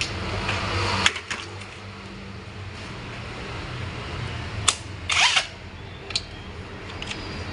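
Metal clicks and clinks of hand tools working on the 5R55W automatic transmission's internal parts: several sharp single clicks and a short scraping rattle about five seconds in, over a steady low hum.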